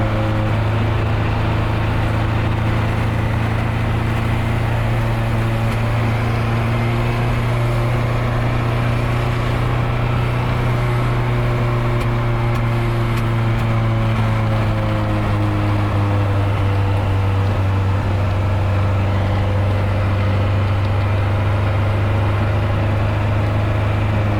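Nissan 240SX engine droning steadily while the car is driven at fairly constant speed, its pitch sagging slowly and then rising again, under a steady wash of road and tyre noise.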